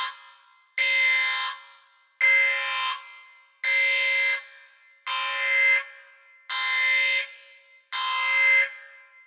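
Alarm horn sounding in repeated blasts: six blasts of a harsh, steady tone, each about three-quarters of a second long, one every second and a half, each ending in a short echoing tail.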